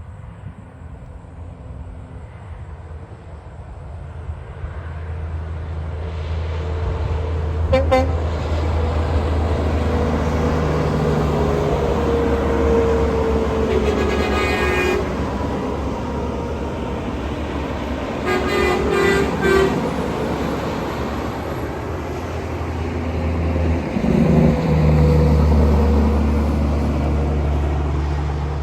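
Heavy trucks driving past with their diesel engines running, getting louder over the first few seconds. A truck horn sounds about halfway through and again a few seconds later.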